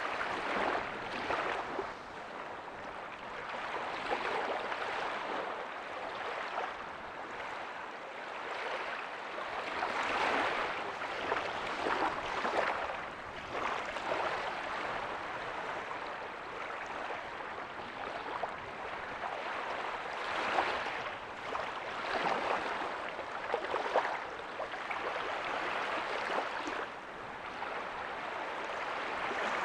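Gentle ocean waves breaking and washing up a beach: a steady hiss of surf that swells and eases every few seconds.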